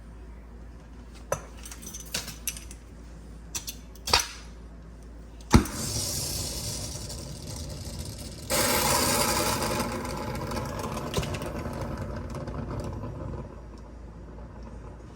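A few light clicks and knocks, then a sharp crack about five seconds in. It is followed by a rush of pressurised gas from the nitrogen and brazing setup on an AC coil repair. The rush swells louder for a moment near the middle and eases off near the end.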